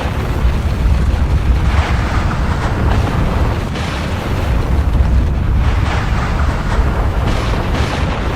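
Volcanic eruption: a loud, continuous deep rumble, with about four rushing surges of noise at irregular intervals of a couple of seconds.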